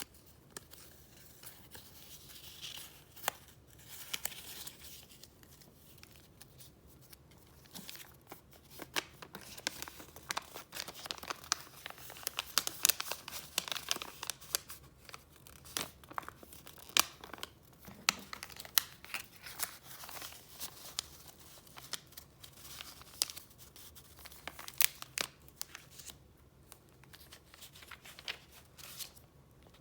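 Paper being flipped through and handled close up: rustling sheets with many sharp crackles, busiest through the middle and dying down just before the end.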